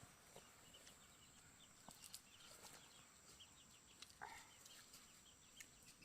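Near silence: faint outdoor background with many small scattered chirps and a brief louder call about four seconds in.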